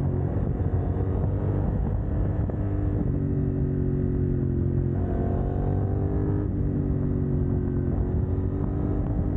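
CF Moto 800NK parallel-twin engine running under way through a de-catted exhaust, its note stepping up and down several times as the rider works the throttle and gears.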